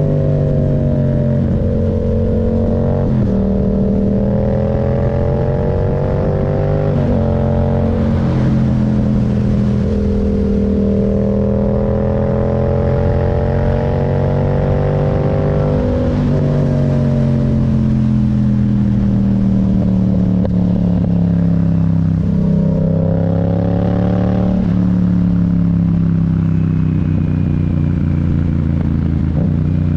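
Yamaha MT-07's parallel-twin engine under way, its note climbing and then dropping suddenly with gear changes a few times, then falling steadily as the bike slows, jumping up once near the end and falling away again.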